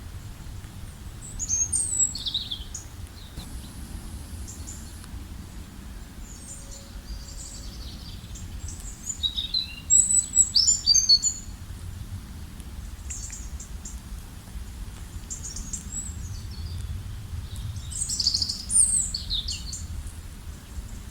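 Songbirds chirping and singing in short, scattered phrases of high chirps and quick trills, with a louder run of rapid chirps about halfway through, over a steady low rumble.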